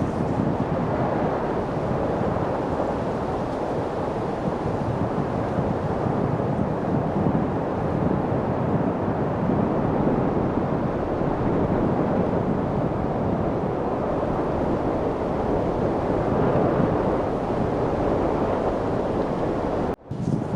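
Steady wind noise: an even rushing hiss with no distinct gusts, cutting out for an instant near the end.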